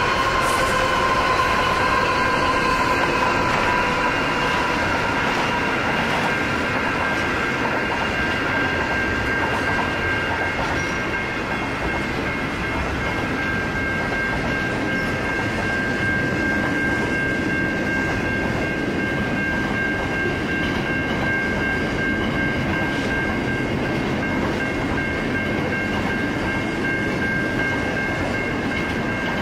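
Freight train passing: the last of its NR-class diesel-electric locomotives goes by in the first few seconds, then a long string of wagons rolls past. A steady high-pitched squeal sits over the rumble of the wheels.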